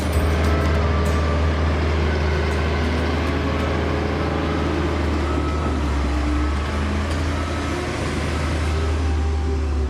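Diesel engine of heavy earthmoving equipment running steadily, a deep, even rumble.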